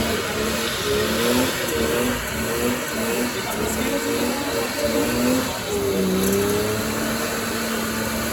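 Car engine revving in short repeated bursts, the pitch rising and falling, then holding a steadier note from about six seconds in.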